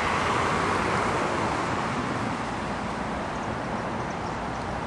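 Jet aircraft passing overhead: a steady rushing noise that eases slowly.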